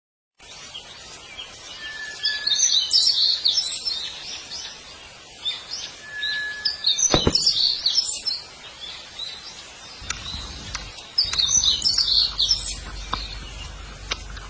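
Birds chirping and twittering in quick high bursts, with a short, steady whistled note now and then. A sharp click sounds about halfway through.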